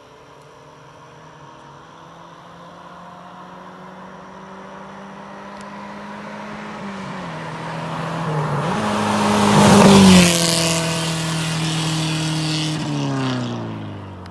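Subaru Outback Sport's flat-four boxer engine with its catalytic converter and muffler removed, running almost straight-piped and loud, as the car accelerates toward and past. It grows louder with changes in revs, is loudest about ten seconds in, then falls in pitch and fades as it moves away.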